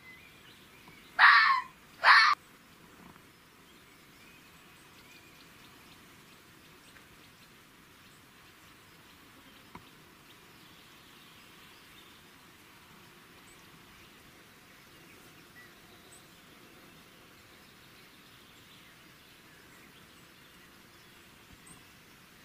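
An animal gives two short, loud calls, the first about a second in and the second right after it. Only faint outdoor background follows.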